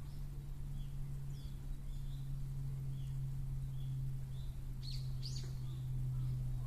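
Small birds chirping, short calls repeating about once a second, with two louder sweeping calls about five seconds in, over a steady low hum.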